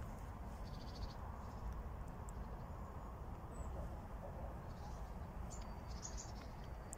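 Outdoor riverside ambience: a steady low rumble, with a few faint, short bird chirps about a second in and again near the end.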